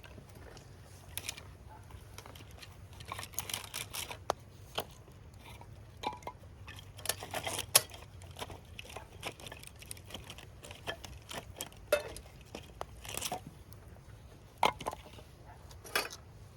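Irregular light clicks, clinks and rustles of small objects being handled, with a sharper knock about eight seconds in.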